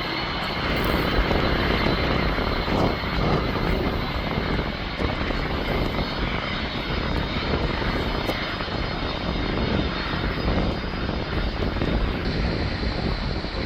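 Jet airliner engines running at high power: a loud, steady rush of noise with a faint high whine over it.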